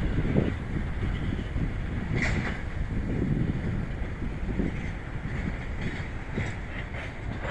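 Freight train rolling past: a steady low rumble of wheels on rails, with wind buffeting the microphone. A brief higher-pitched sound comes about two seconds in.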